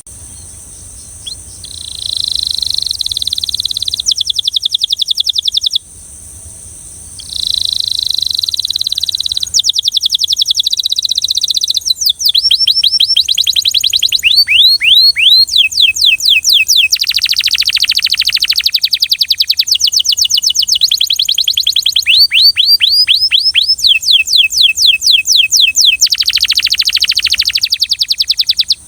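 Belgian canary singing in fast rolling trills: phrases of rapidly repeated, sweeping notes, separated by short pauses, with the song growing louder and fuller about halfway through.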